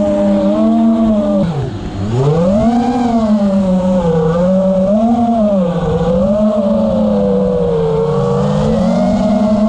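A single motor running hard, its pitch wavering up and down as the throttle changes. About two seconds in it dips sharply, then climbs back.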